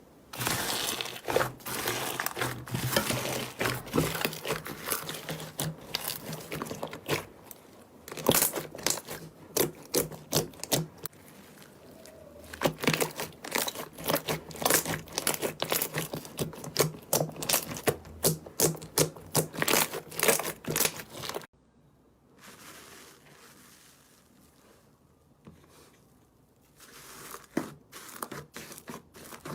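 Slime being squeezed and worked by hand, giving rapid crackling, popping clicks. The clicking stops about two-thirds of the way through, goes soft and sparse, and picks up again near the end.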